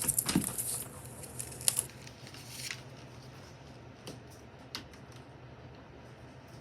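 A quick run of sharp clicks and rustling for about two seconds, then a steady low hum with two single clicks.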